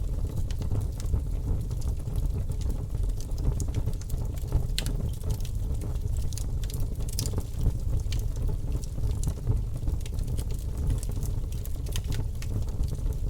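Wood fire in a fireplace crackling, with scattered sharp pops and snaps over a steady low rumble of the flames.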